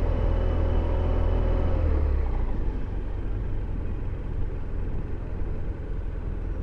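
Motorcycle engine running under way with a steady drone, its revs dropping away about two seconds in, after which mostly low road and wind rumble is left.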